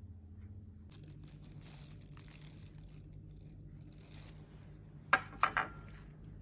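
Crinkly rustling, like plastic being handled, for a few seconds, then three sharp clinks with a brief ring in quick succession and a last knock near the end, over a low steady hum.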